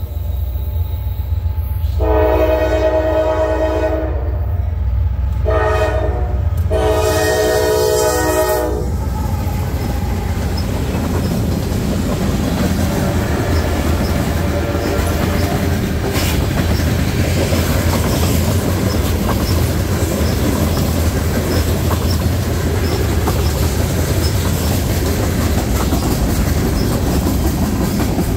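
Diesel freight locomotive sounding its chime horn: a long blast, a short one and another long one. The horn gives way to the train rolling past, with the diesel rumble and wheels clicking over rail joints.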